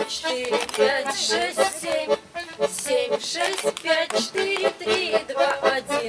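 Accordion music: a tune of quick, short notes played without a break.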